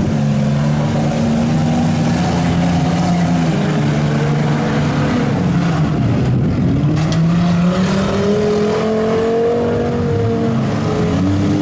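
Several demolition derby trucks, vans and SUVs revving their engines at once, their pitches rising and falling against each other as they drive and ram.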